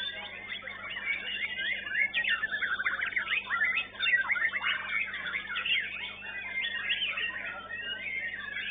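Several caged white-rumped shamas singing at once, a dense overlapping chorus of whistles and rapid trills, over a steady low hum.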